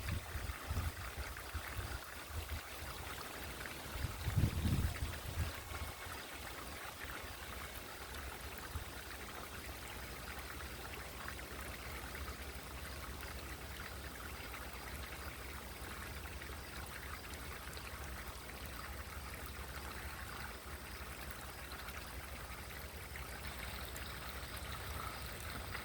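Small solar-powered garden fountain's water trickling and splashing steadily, with a few low bumps in the first five seconds.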